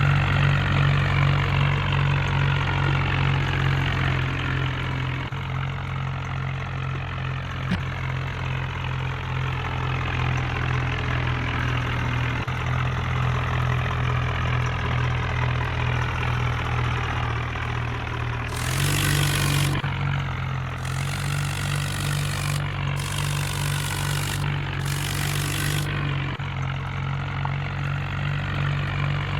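Tractor engine idling steadily. About two-thirds of the way in, the engine note shifts briefly and four short bursts of hiss break in over it.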